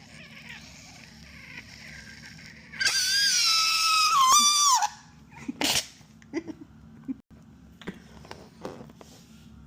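Air let out through a stretched balloon neck, giving a loud squeal of about two seconds that wavers and then drops in pitch as it stops. A short burst of air follows, then a few small clicks.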